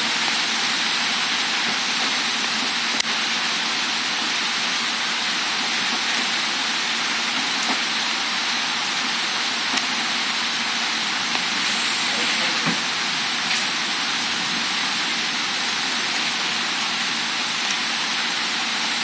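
Heavy tropical-storm rain pouring down onto trees and foliage, a dense steady hiss with an occasional faint tick.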